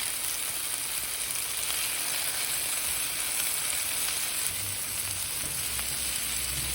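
Seasoned chicken frying in hot avocado oil in a skillet: a steady, dense sizzle.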